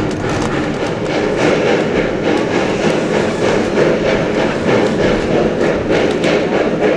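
Steady rumble and clatter of a moving passenger train's wheels on the rails, heard from aboard the coach.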